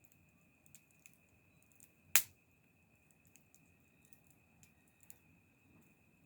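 Wood fire crackling: scattered small ticks and pops, with one sharp, loud pop about two seconds in.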